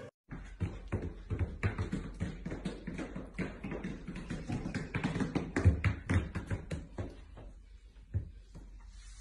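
Two huskies in dog boots walking on a hard floor and down a step, their booted paws making many quick, uneven taps that thin out near the end.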